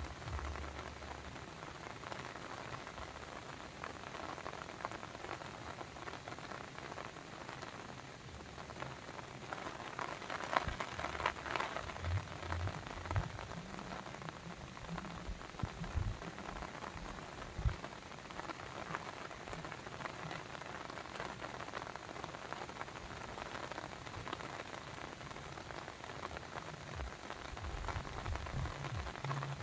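Rain falling steadily, a dense patter of drops, with occasional low rumbles near the start and toward the end.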